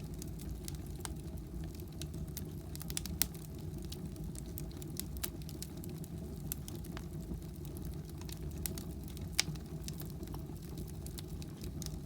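Firewood burning in a fireplace, crackling with sharp irregular pops over a steady low rumble. Two louder pops come about three seconds in and near the end.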